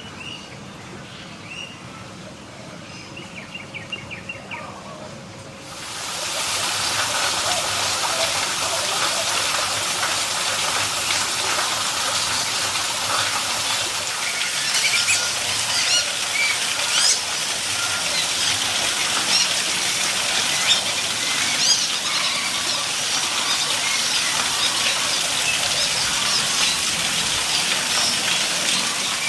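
Birds chirping and calling: a few quick chirps at first, then many overlapping calls. About six seconds in, a loud, steady rush of water sets in under them.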